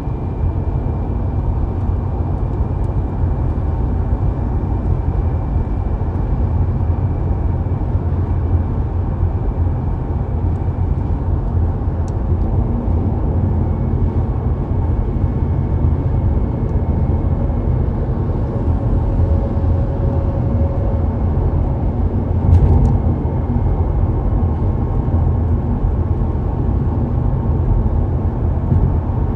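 A car driving at a steady speed: a continuous low rumble of engine and tyres on the road, with one short knock about three-quarters of the way through.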